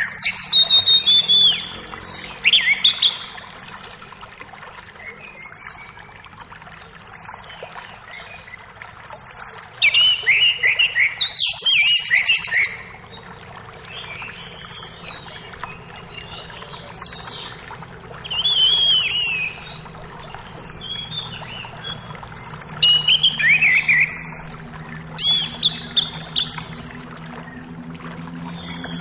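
Forest birds singing: one bird repeats a short, very high note about every two seconds while others add quick falling phrases. A faint steady creek flows underneath.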